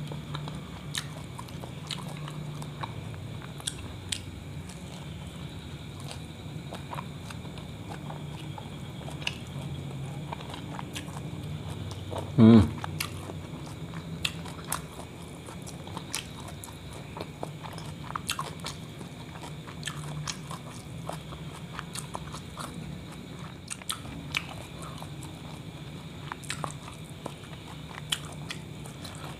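A person chewing and biting a thick kebab wrap, soft smacking and clicking mouth sounds throughout, over a steady low hum. A brief loud vocal sound about twelve seconds in.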